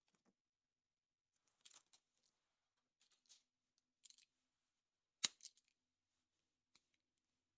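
Hands handling a surprise egg's plastic capsule and toy pieces: scattered faint rustles and small clicks, with one sharp snap a little after five seconds in.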